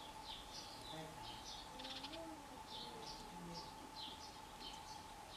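Small birds chirping in the background, short high notes repeating about twice a second, faint, over a steady faint hum.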